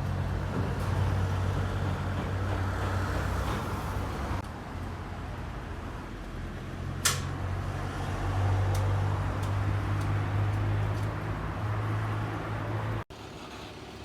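Steady low drone of a running vehicle, with one sharp click about seven seconds in; the drone stops abruptly about a second before the end.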